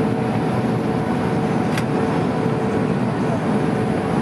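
Steady cabin noise inside an Airbus A310 airliner: a dense rumble of engines and airflow with a steady hum running through it.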